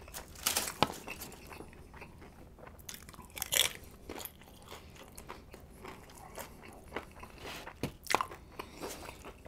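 Close-up crunching and chewing of tortilla chips, with a few sharp crunches standing out: about half a second in, around three and a half seconds, and again near eight seconds.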